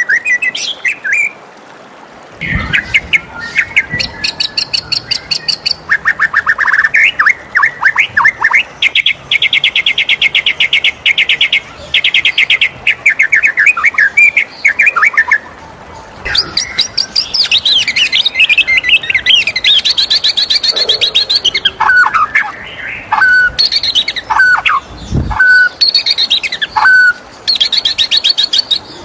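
White-rumped shama singing a loud, varied song: fast trills of rapidly repeated notes, sweeping whistled phrases and chatter, broken by short pauses. A few dull low thumps sound under the song.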